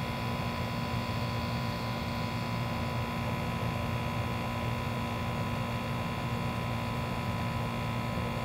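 Two old Goodman outdoor AC condensing units running, their compressors and condenser fans making a steady hum with a few constant tones over it.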